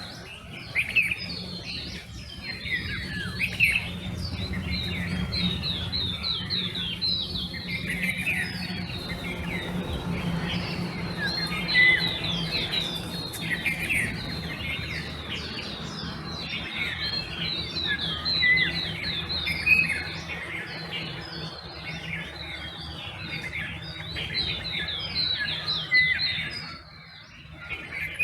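Dawn chorus of many birds chirping and trilling at once, a dense stream of short, high overlapping calls, over a low steady hum.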